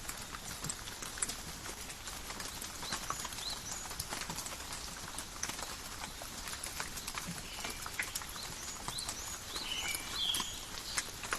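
Steady rain falling in a forest, with many individual drops ticking and pattering close by. Short high bird chirps come through it, with a pair of buzzy calls near the end.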